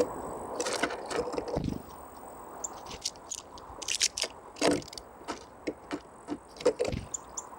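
Small birds pecking and tapping at seeds on a feeder: irregular sharp taps and clicks with some scraping.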